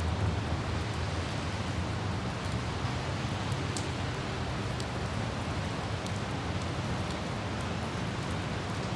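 Light rain ambience with scattered droplet ticks over the steady low rumble of a car driving on a wet city road. A few sharper drops stand out about four and five seconds in.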